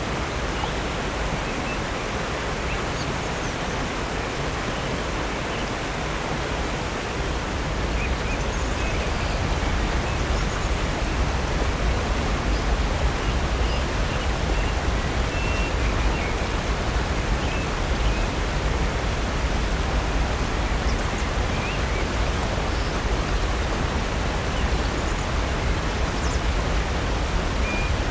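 Steady rush of falling water at Upper North Falls, growing louder about seven seconds in, with a few faint bird chirps over it.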